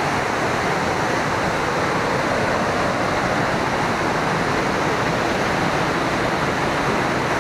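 Waterfall: water crashing down in a steady, loud rush.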